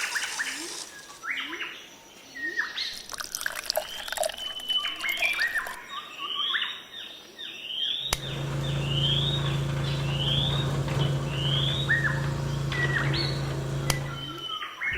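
Songbirds chirping with many short rising and falling calls. About halfway through, a steady low machine hum starts abruptly under the birdsong and cuts off shortly before the end.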